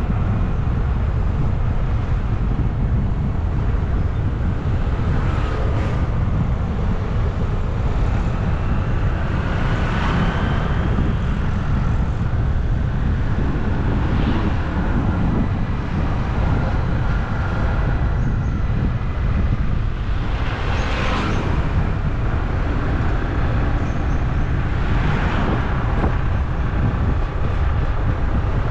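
Steady low rush of wind and road noise from a moving bike ride, with several short louder swells every few seconds as other traffic passes.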